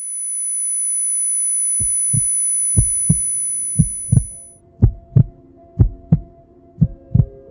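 Dramatic sound effects: a loud, steady high-pitched ringing tone like ears ringing after an impact, cutting off about halfway through, and a heartbeat effect of double thumps about once a second that starts about two seconds in, over a low droning hum.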